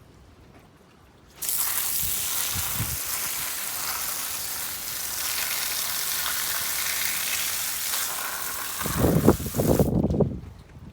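A steady spray hiss that starts suddenly about a second and a half in, holds for about eight seconds and cuts off sharply, with low thuds near the end.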